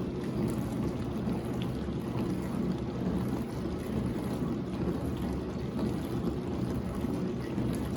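Whirlpool WDF310PAAB4 dishwasher running its wash stage in diagnostic mode: the wash pump runs steadily and water sprays against the inside of the tub.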